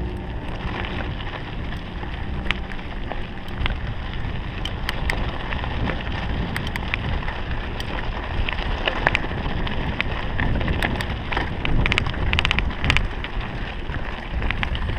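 Mountain bike riding down a dirt trail: steady tyre and wind noise on the microphone, with frequent sharp rattles and clacks from the bike over rough ground, thickest in the second half.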